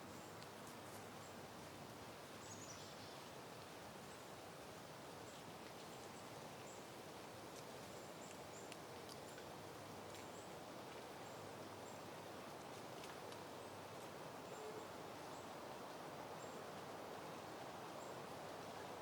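Soft, faint wind rustling through peony plants and foliage, with faint high bird chirps scattered throughout.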